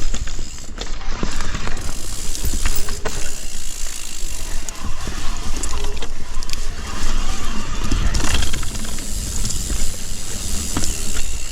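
Mountain bike being ridden down a dirt trail: the rear hub ratchets while coasting, and the chain and frame clatter irregularly over bumps, over a steady low rumble.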